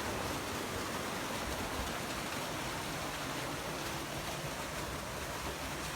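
Steady rush of flowing water from a stream or falls.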